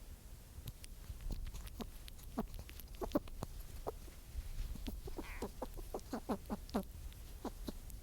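An animal giving a series of short clucking calls, each falling quickly in pitch, in two quick runs: one about three seconds in and a longer one near the end.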